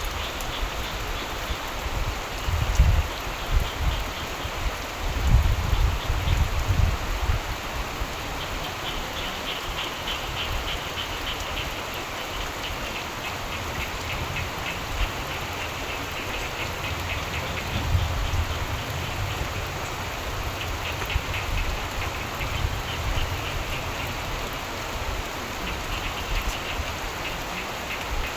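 Steady rain falling, with frogs calling in rapid pulsed trills that come and go. A low rumble swells and fades twice, in the first few seconds and again midway.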